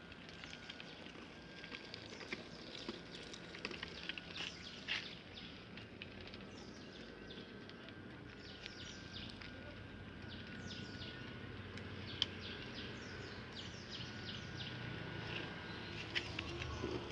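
Bird calls: many short, high chirps, each falling quickly in pitch, repeated irregularly throughout, over a faint steady high tone.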